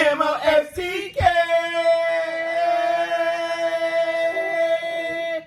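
A man and a woman singing a short sign-off jingle unaccompanied, ending on one long held note.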